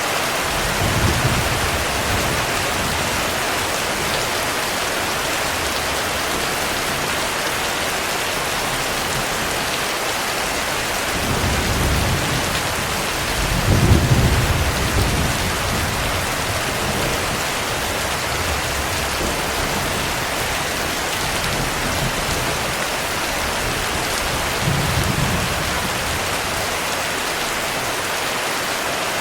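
Heavy, steady rain with thunder rumbling low over it three or four times. The loudest, longest roll comes around the middle, with shorter ones about a second in and near the end.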